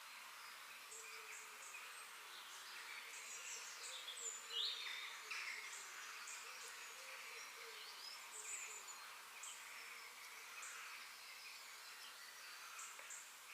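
Outdoor park ambience of several birds chirping and calling, with short high chirps throughout and one louder falling call about four and a half seconds in.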